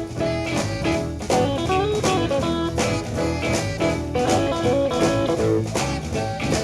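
Blues band playing: a guitar plays a lead melody of held, bending notes over a low bass line and drums keeping a steady beat.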